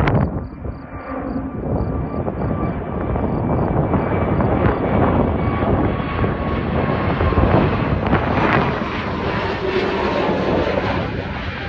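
Airbus jet airliner's engines at takeoff thrust: a loud, steady rumble with a faint thin whine, easing slightly near the end.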